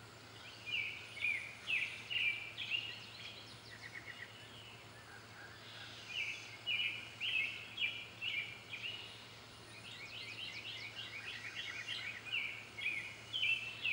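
Birds singing outdoors: repeated quick series of high chirped notes, pausing briefly about four and nine seconds in.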